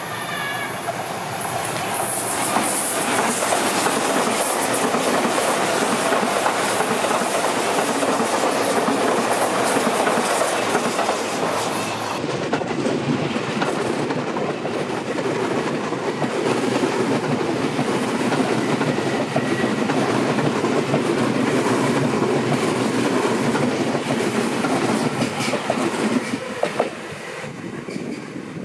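Seibu Railway electric train running past close by, with a loud continuous rolling of steel wheels on the rails that drops away near the end.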